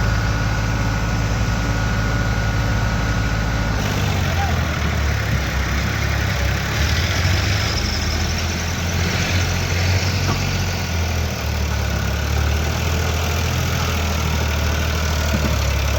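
Farmtrac tractor's diesel engine running steadily, its engine speed stepping up about four seconds in and holding at the higher speed.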